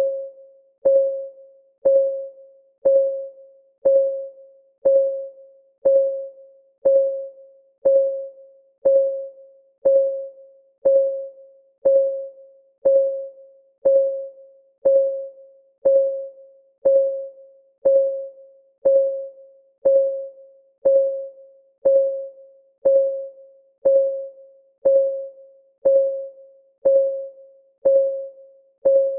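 Clock ticking sound effect: one short, pitched tick each second with a brief ring, keeping an even rhythm.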